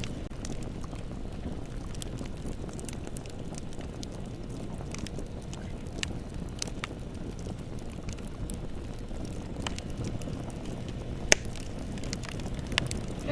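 Wood fire burning with a steady low rumble and scattered crackles and pops, the loudest pop about eleven seconds in.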